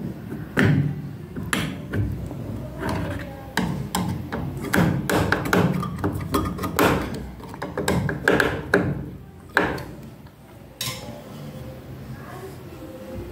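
A run of irregular knocks, clicks and clunks from a washing machine's plastic panels and fittings being handled and fixed back in place, thinning out and going quieter near the end.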